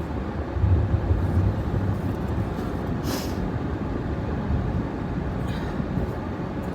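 Steady low rumble of a truck running, heard from inside the cab, with a short hiss about three seconds in.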